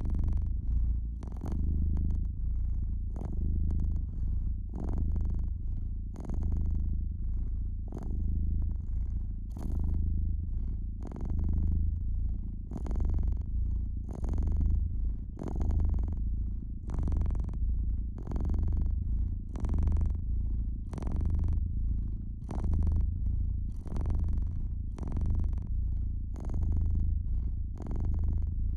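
Domestic cat purring steadily and close, the low rumble swelling and fading about once a second with its breathing. Faint crackles of a wood fire sound through it.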